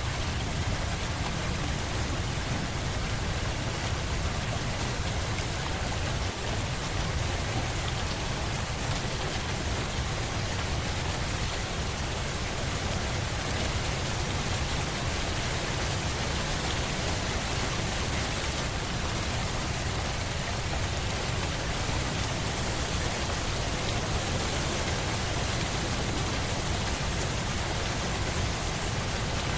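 Steady rain falling on a surface, an even hiss with a low rumble underneath.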